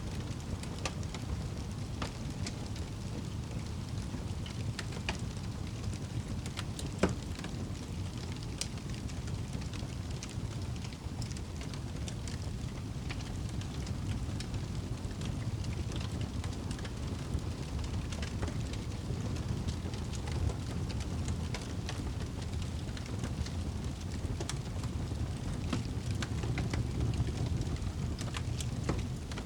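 Wood fire burning in a fireplace: a steady low rumble of the flames with scattered crackles and pops, one sharper crack about seven seconds in.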